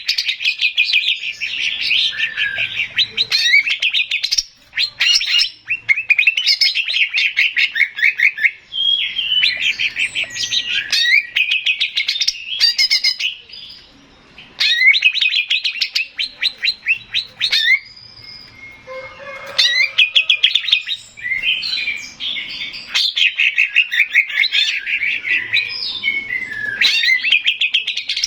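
Male greater green leafbird (cucak ijo) singing in long phrases of fast, repeated chattering notes and trills, broken by short pauses every few seconds.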